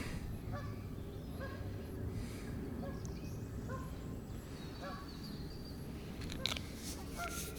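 Birds calling in the distance in short, scattered calls over a steady outdoor background, with a single sharp knock near the end.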